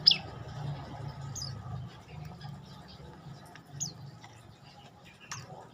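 Prenjak lumut (a prinia) calling: four short, sharp chirps that slide down in pitch, spaced a second or more apart, the first one the loudest, over a steady low hum.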